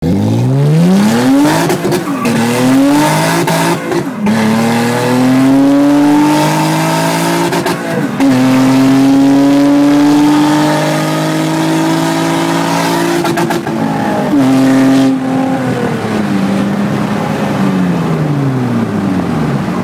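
Honda hatchback's swapped-in 3.5-litre V6 accelerating hard through the gears: the engine note climbs and drops sharply at each upshift, about four times, holds steady at high revs for several seconds, then falls away steadily near the end as the car slows.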